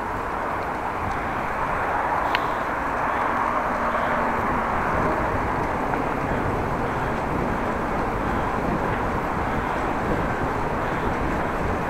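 Steady wind rushing over the microphone of a camera riding along on a moving bicycle, a constant noisy rumble with no break.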